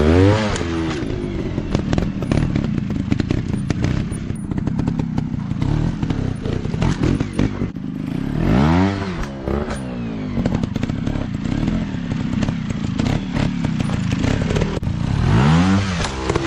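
Dirt bike engine running under load, revved up and back down three times: near the start, about halfway through and near the end. Clattering and knocking throughout.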